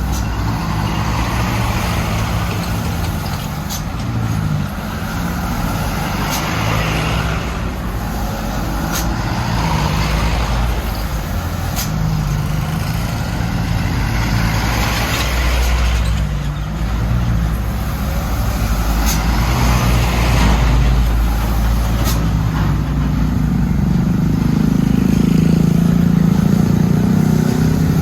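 Diesel engine of a heavily overloaded Mitsubishi Canter truck running under load, its pitch shifting and rising louder near the end. Several short sharp clicks or hisses come through over the engine.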